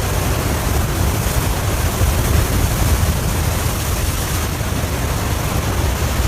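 River ice breakup: fast floodwater rushing and pushing through broken ice, a loud steady rush with a heavy low rumble.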